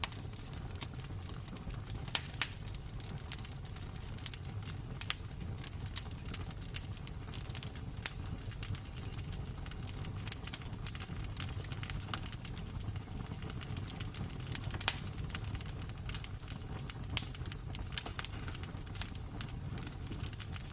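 Wood fire crackling in a fireplace: irregular sharp pops and snaps over a steady low rumble, with a few louder pops standing out.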